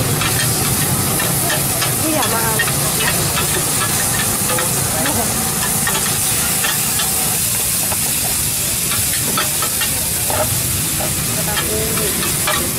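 Shrimp sizzling in hot oil in a wide, shallow pan, a steady hiss, while a metal spatula and scoop scrape and click against the pan many times as the food is stirred.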